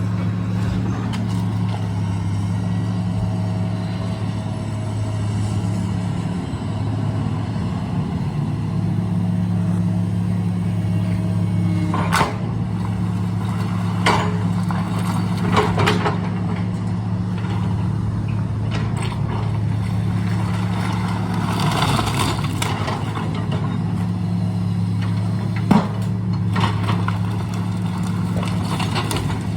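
Demolition site: a heavy engine runs steadily with a low hum, and sharp bangs and crashes of demolition break through it several times, the loudest about 12 s and 26 s in.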